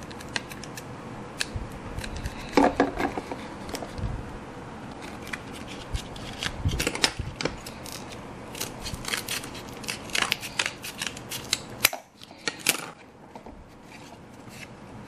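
Scissors snipping through a cardboard cup sleeve in short, irregular cuts, with the paper rustling as it is handled.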